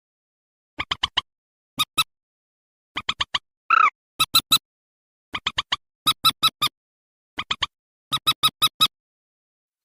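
Recorded bird calls: short, sharp notes in quick bursts of three to five, repeated every second or so, with one longer bending call about four seconds in; the calls stop near the end.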